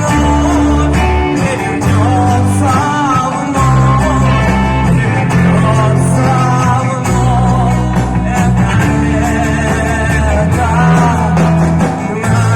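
A live band playing a rock-style pop song: electric guitar, bass and drums under a wavering sung or played melody line, with bass notes changing every second or two.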